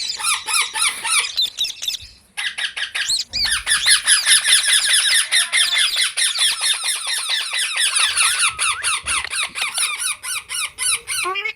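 Green parrots chirping in a fast, unbroken run of short, high, squeaky calls, several a second. There is a brief pause about two seconds in.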